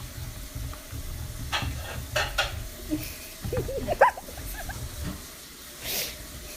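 An animal giving a quick run of short, high, sliding squeaks about halfway through, the loudest near the end of the run. Under it runs a low rumble, with a few brief scrapes.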